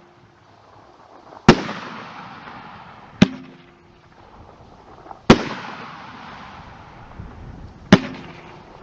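Aerial firework shells breaking in the sky: four sharp bangs about two seconds apart, each dying away over about a second.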